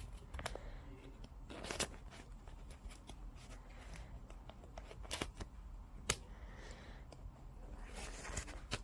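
Rustling handling noises with several sharp clicks spread through, over a low steady background hum.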